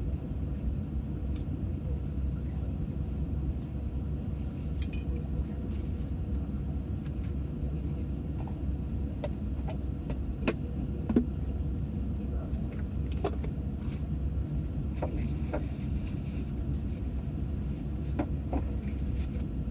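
A steady low rumble with scattered light clicks and clinks, the loudest about 11 seconds in.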